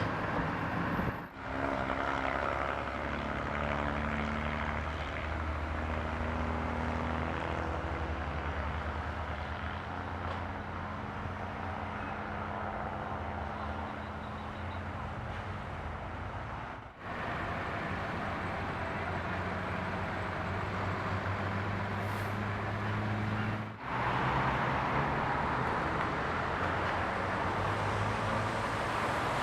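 A large engine running steadily with a deep hum, broken by a few short gaps where the footage cuts.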